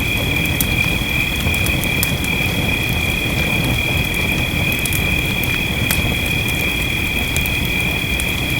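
Wood fire crackling with irregular small pops over a steady rain-like hiss, with a steady high-pitched tone above it.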